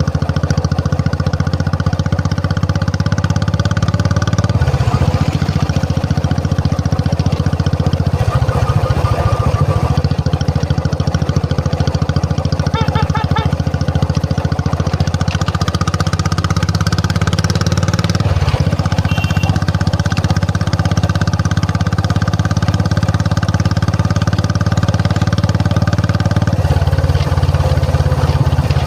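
Royal Enfield Classic 350's single-cylinder engine running with a fast, even exhaust beat; the beat shifts a few times as the revs change.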